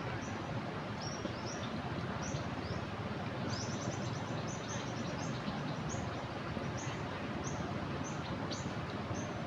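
Steady rush of fast-flowing floodwater over a weir, with a small bird chirping repeatedly above it: short, high, slightly falling notes every half second or so.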